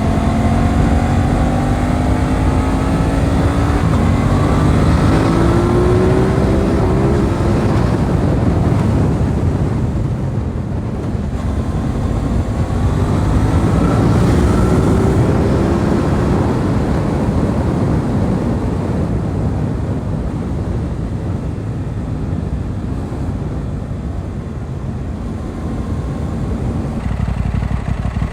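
Aprilia RS 660 parallel-twin engine pulling hard and rising in pitch through the revs, twice, under heavy wind noise. Between the pulls it runs at a steadier pitch.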